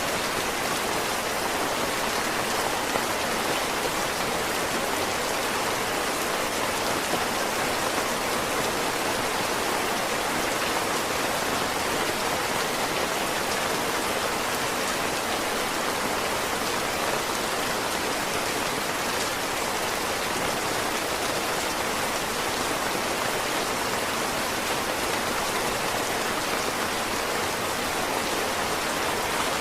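Heavy rain falling steadily, an even, dense hiss of downpour that does not change.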